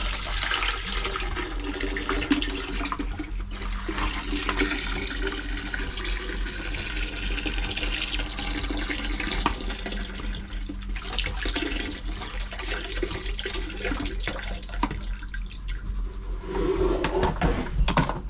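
Windscreen washer fluid, used as antifreeze, pouring steadily into a boat's toilet bowl with splashing and gurgling. There are a few louder knocks near the end.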